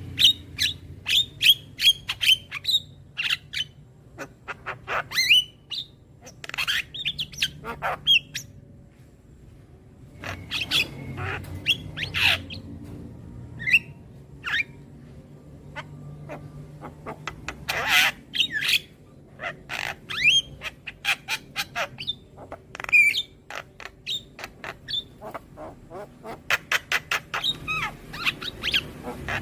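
Young Javan myna (jalak kebo) calling: bursts of short, harsh squawks, chirps and clicks in quick succession, with a brief lull about a third of the way in.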